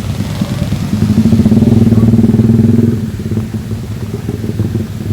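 Motorcycle engine passing close by on a wet street, loudest about a second in and fading after three seconds, with rain hissing faintly behind it.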